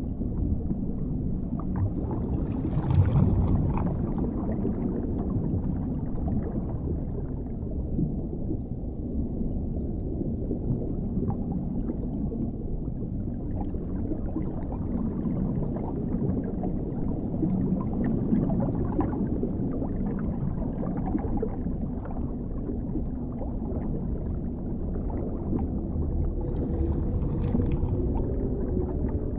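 Dark underwater ambience: a deep, muffled rumble with gurgling swells, loudest about three seconds in, and a faint drawn-out tone near the end.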